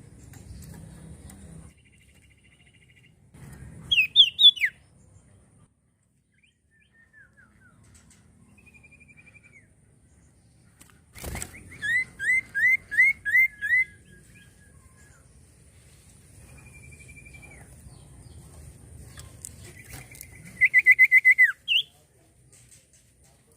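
Common iora singing: three loud bursts of quick repeated notes, the first falling in pitch, the last ending on a rising note, with a few softer drawn-out whistles in between.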